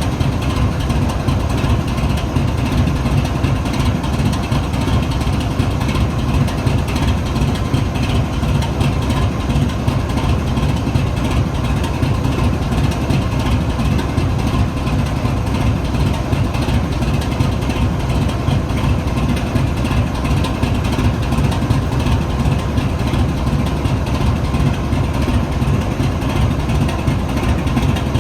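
Two GE WDG4G diesel-electric locomotives idling together, their V12 GEVO diesels giving a steady deep rumble with the crackling idle exhaust these engines are known for, and faint steady tones above it.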